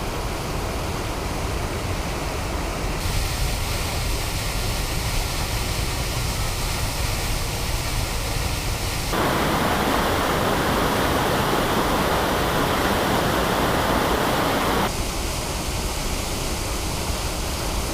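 Steady rush of Kirkjufellsfoss waterfall. It shifts suddenly in level and tone three times, and is loudest and fullest in the middle stretch.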